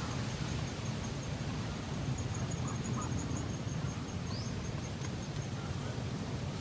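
Outdoor ambience: a steady low rumble, with a faint high-pitched chirping in the background that repeats about five times a second and one short separate call about four seconds in.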